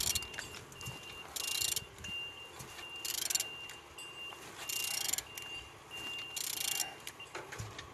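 Used Mercedes-Benz M112 V6 engine being turned over by hand, giving a breathy whoosh of air through the engine about every second and a half as it rotates freely. A steady run of short high electronic beeps, like a reversing alarm, sounds behind it.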